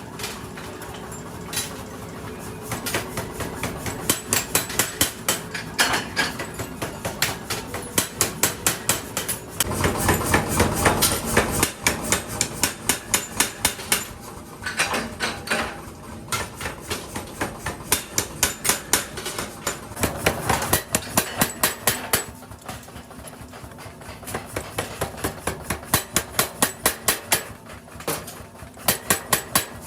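Hammer striking metal again and again in quick runs of about four blows a second, each blow ringing sharply. About ten seconds in, a louder stretch of rushing noise rises under the blows for a couple of seconds.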